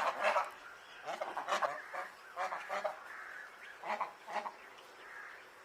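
Parrot calling: four bursts of short squawks, roughly one burst every second and a half, followed by a fainter held note near the end.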